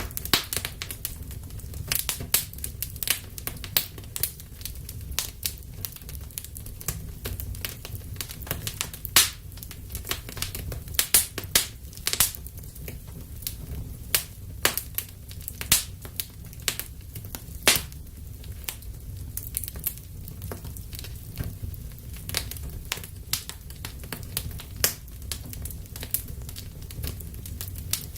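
Wood fire burning in a fireplace: a steady low rumble of flames with frequent sharp crackles and pops at irregular intervals, a few louder snaps among them.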